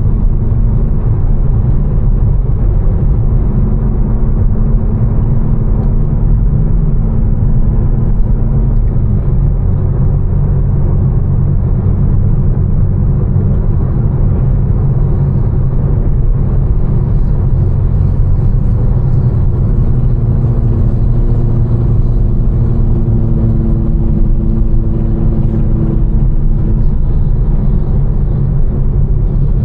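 Tuned BMW M4's twin-turbo straight-six, with catless downpipes and an Fi exhaust, driving along steadily: a loud, even low drone of engine and road rumble, with no gear changes or revs.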